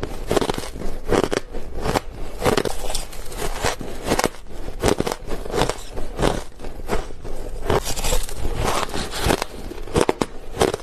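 Close-up crunching of white ice being bitten and chewed, a rapid series of crisp crunches several times a second.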